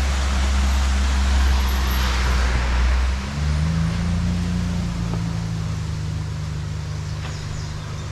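Motor vehicle engine running steadily, its hum stepping up in pitch about three seconds in, over a steady rushing noise.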